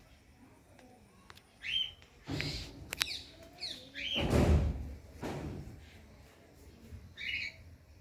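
A bird calling in short rising chirps, three of them a couple of seconds apart, with a few sharp clicks and louder low rumbling noises in between.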